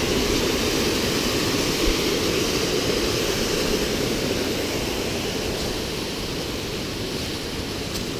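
Waterfall rushing: a loud, steady wash of falling water that grows a little softer in the second half.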